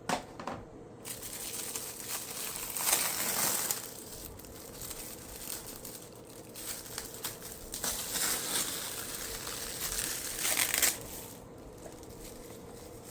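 Crinkling, rustling handling noise that comes in irregular bursts, the loudest about three seconds in and again near the end, over a faint steady hum.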